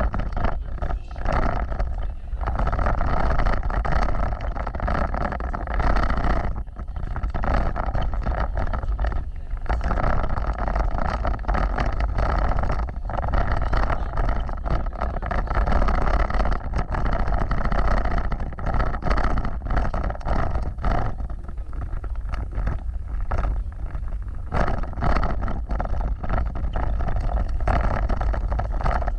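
Off-road vehicle driving over rough ground: a steady engine and tyre rumble, broken by frequent knocks and rattles from the jolting.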